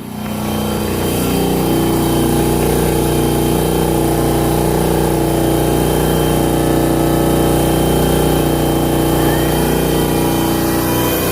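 Pneumatic equipment running steadily: a motor spins up over about a second and then holds an even hum.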